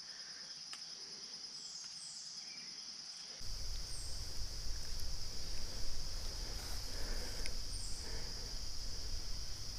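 Insects, crickets or similar, buzzing steadily in one high band, with a few faint short chirps above it. About three and a half seconds in, a low rumble joins them.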